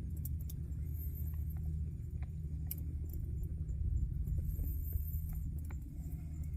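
Wood campfire crackling: scattered sharp pops and snaps over a low, steady rumble.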